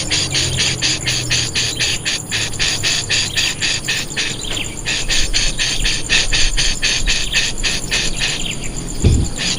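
Young birds calling rapidly and shrilly, a fast string of short high notes at about four to five a second with a few downward-slurred calls mixed in, and a low thump near the end.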